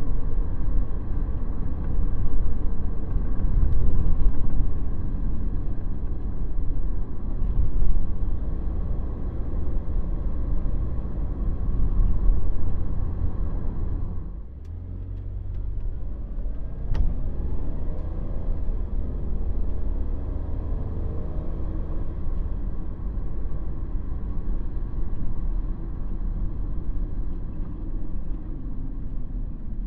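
Engine and road noise of a 2017 Ford Transit Sportsmobile camper van heard from inside the cab while driving, a steady low rumble. About halfway through the noise drops sharply, then builds again with a rising engine note.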